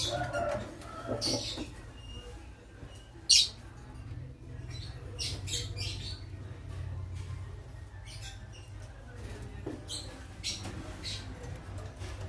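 Lovebirds giving short, shrill chirps and squawks at irregular intervals, the loudest about three seconds in, over a steady low hum.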